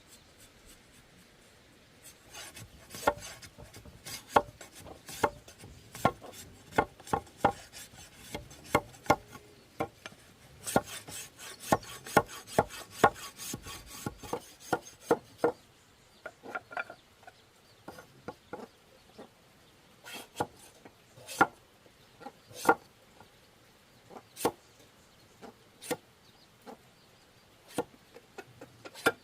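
Repeated sharp knocks of a hand tool striking bamboo, in an irregular run of about one to two a second that thins out to scattered single blows in the second half, with some scraping between strikes.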